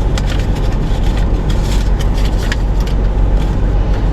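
Car engine idling, heard from inside the cabin as a steady low rumble, with a few faint clicks over it.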